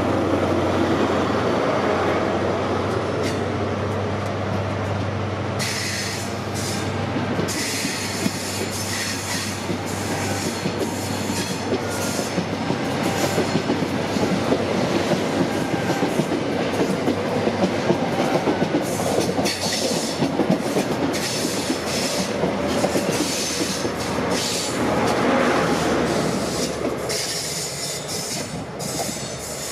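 High Speed Train (InterCity 125) pulling out. The leading Class 43 diesel power car's engine drones past. Then the Mark 3 coaches roll by, their wheels clicking steadily over rail joints with a faint squeal. Near the end the trailing power car's engine swells briefly and fades.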